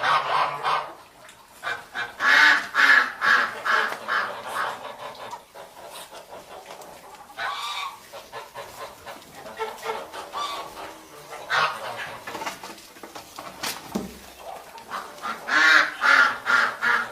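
Domestic geese honking in bursts of rapid, repeated calls, loudest a couple of seconds in and again near the end, with quieter gaps between.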